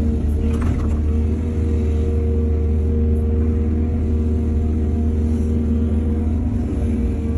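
Heavy diesel engine of earthmoving machinery running steadily with a deep rumble at a constant speed, with a brief rattle about half a second in.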